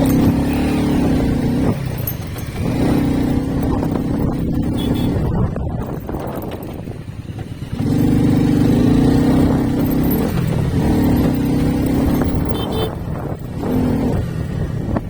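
Motorcycle ride through road traffic: an engine and horn-like note holds steady for stretches of about two seconds, breaking off and coming back several times.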